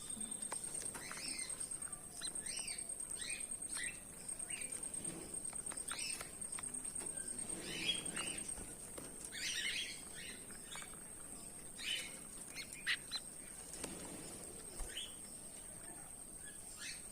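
Goldfinches giving short, scattered chirping calls, with a steady thin high-pitched tone running underneath.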